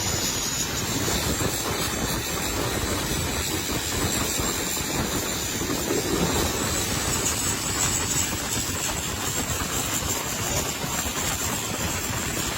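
An engine running steadily under a constant hiss, with no change in pitch.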